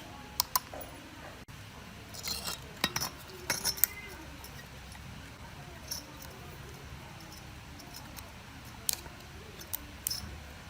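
Sharp metallic clinks and taps of tools and small metal engine parts being handled, coming in a bunch about two to four seconds in and again near the end, over a steady low hum.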